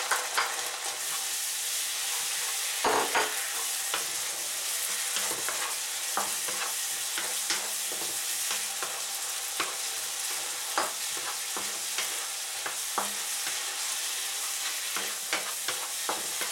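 Chopped onion and red pepper sizzling in a frying pan, with soy sauce and vinegar cooking down, as a wooden spatula stirs and knocks against the pan in scattered clicks, a louder cluster about three seconds in.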